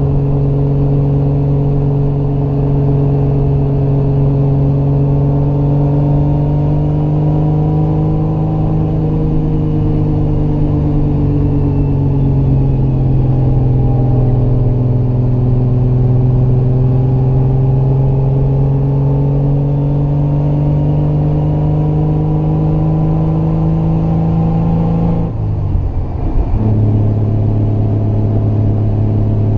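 Triumph GT6 Mk2's two-litre straight-six pulling uphill under load, heard from inside the car, its note rising and falling gently with road speed. About 25 seconds in the note breaks off briefly for an upshift, then settles on a lower, steady pitch.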